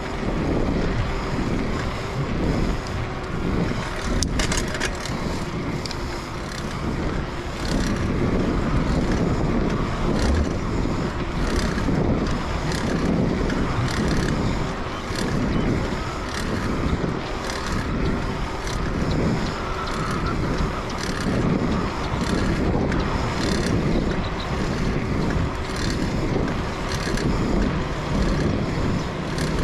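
A vehicle running steadily along, with heavy wind buffeting on the microphone.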